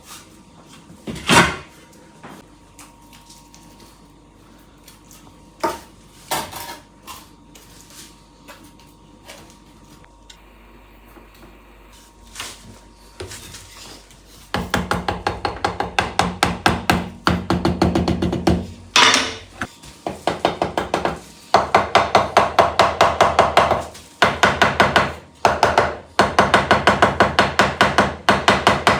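A few scattered knocks, then from about halfway on rapid repeated striking, several blows a second, in bursts of a few seconds each.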